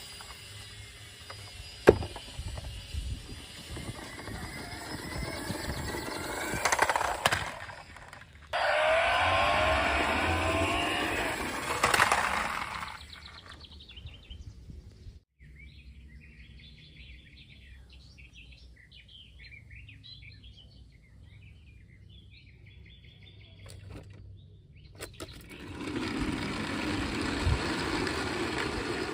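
Toy cars rolling over hard ground, in separate takes that start and stop abruptly. In the quieter middle stretch, birds chirp.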